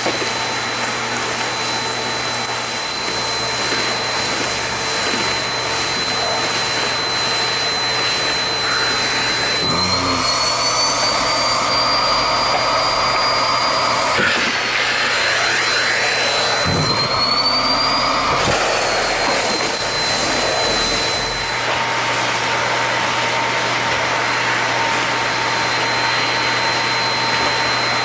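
Nilfisk GM80 vacuum cleaner running steadily with a high motor whine. About ten seconds in, the whine rises and wavers and the sound thickens, with a couple of knocks; it settles back to the steady whine a little after twenty seconds.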